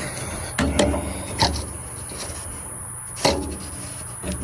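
A few scattered light knocks and clicks from handling parts on the tractor, with the engine off, over a steady high-pitched whine.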